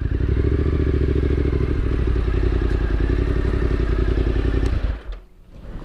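A vehicle's engine running at a steady idle with a rapid, even firing pulse, then dying suddenly about five seconds in: a stall.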